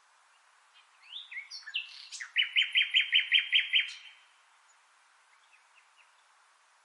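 A bird singing one phrase. It opens with a few quick sliding notes, then runs into a string of about nine loud, evenly repeated notes, and stops about four seconds in. A few faint chirps follow.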